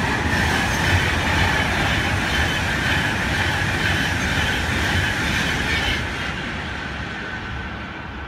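Virgin Trains West Coast express train passing through the station at speed without stopping: a loud rush of wheel and rail noise with a faint high steady tone, fading away after about six seconds.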